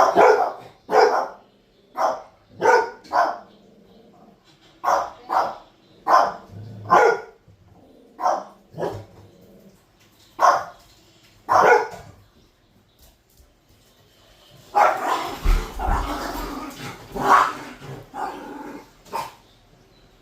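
Pet dog barking in short separate barks, about a dozen over the first twelve seconds, then a denser flurry of barking mixed with a low thump from about fifteen seconds in.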